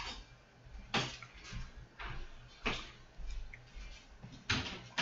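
Pages of a Bible being turned by hand: a few short paper rustles and swishes, one every second or two, while a passage is searched for.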